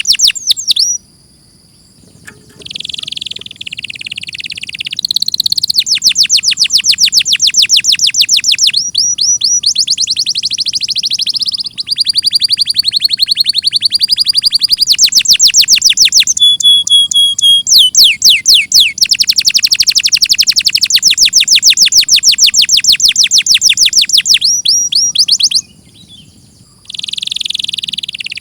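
Domestic canary singing: long runs of fast, rapidly repeated high notes and rolling trills, broken by short pauses about a second in and again near the end.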